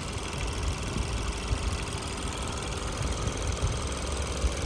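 Ford Edge engine idling steadily, with its radiator cooling fans not running.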